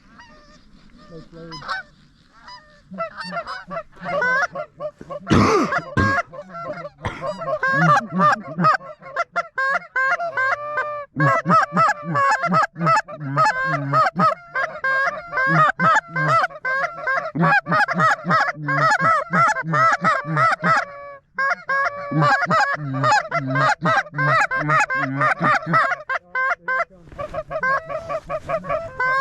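Geese honking, a dense rapid stream of short honks, with one short burst of noise about five and a half seconds in.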